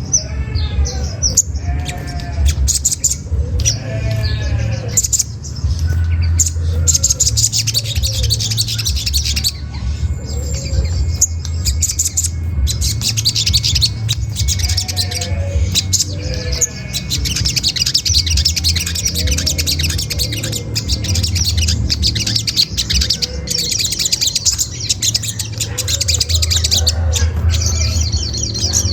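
Olive-backed sunbirds calling: a rapid, high 'cret cret' chatter, the lure call used to provoke other sunbirds into answering. Lower, arching bird calls come and go beneath it over a steady low hum.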